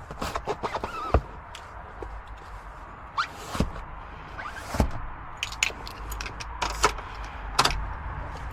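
Scattered clicks, knocks and a few thuds from someone handling things inside a parked car's cabin with the engine off, over a low steady rumble.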